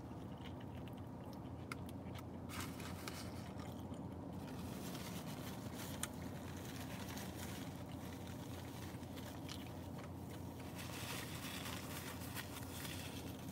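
A person biting into and chewing a breakfast burrito, faint mouth and wrapper sounds with a few small clicks, over a steady low hum.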